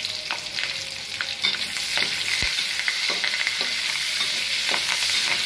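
Sliced onions and curry leaves sizzling in hot oil in a stainless steel wok, stirred with a spatula that clicks and scrapes against the pan. The sizzle grows a little louder about one and a half seconds in.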